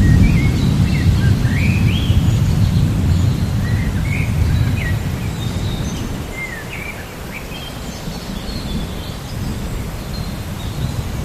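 Rain falling steadily with a low rumble of thunder that fades away over the first half, while birds chirp throughout in short rising and falling calls.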